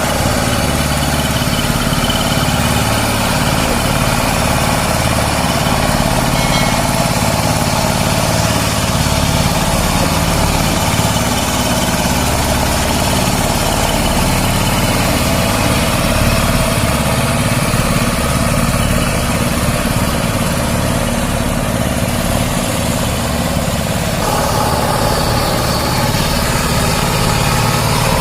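Kirloskar KOEL Mega T15 power tiller's single-cylinder diesel engine running steadily, with a low, even rhythm; its tone shifts near the end.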